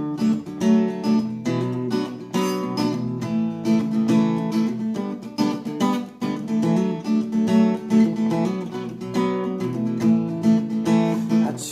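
Acoustic guitar strummed in steady chords, the instrumental intro of a slow original song before the vocals begin.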